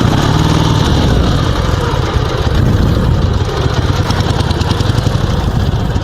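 Dnepr 16 sidecar motorcycle's 650cc boxer-twin engine running steadily just after being started. Its idle is set too low, so it has to be kept on the throttle to stay running.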